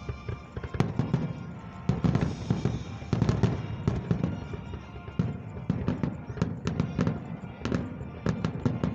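Fireworks finale: aerial shells bursting in quick, overlapping succession, the bangs coming thickest in the second half.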